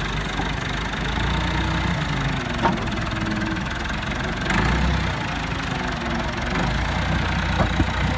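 Vehicle engine idling steadily, with a couple of light knocks about two and a half and four and a half seconds in.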